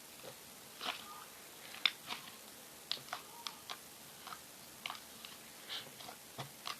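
Slime being squished and pulled by hand, making irregular sticky clicks and small pops, about a dozen in a few seconds.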